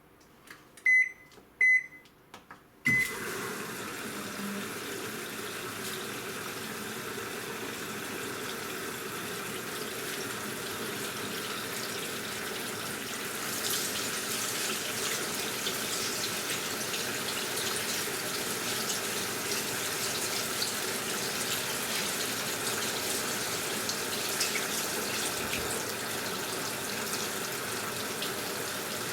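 AQUA washing machine beeping three times from its control panel, then water rushing into the tub as it starts filling; the flow turns louder and more splashy about halfway through.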